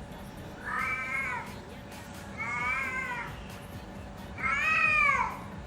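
Domestic cat meowing three times, each call just under a second long. The third call is the loudest, rising and then falling in pitch.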